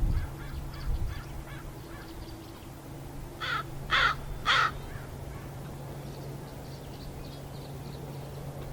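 A crow cawing three times in quick succession, harsh calls about half a second apart.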